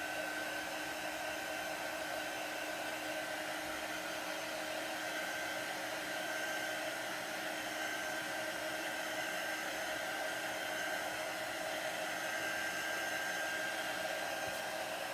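Handheld hair dryer blowing steadily, drying freshly applied chalk paste. A steady whine sits over the rush of air.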